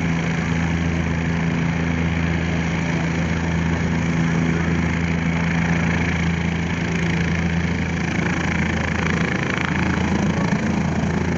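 Helicopter running steadily: a constant engine-and-rotor drone with a low hum underneath.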